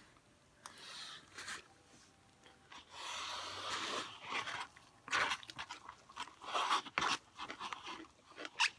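Crunchy food being bitten and chewed close to the microphone: a steady hiss about three seconds in, then a quick run of sharp crunches.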